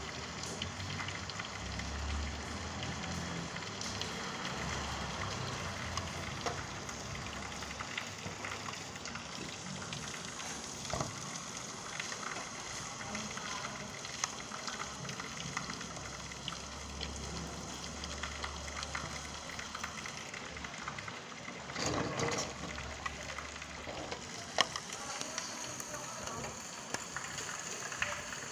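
Steady rain falling, an even hiss full of fine, scattered drop crackles, with a short louder rush a little over two-thirds of the way through.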